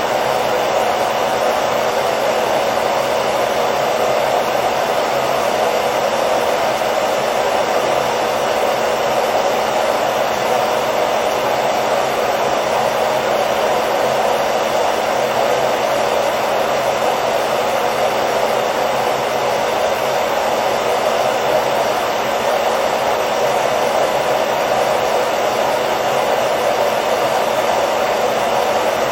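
Hair dryer running steadily, a constant whooshing blow of air with a faint motor hum, played as continuous white noise to lull a baby to sleep.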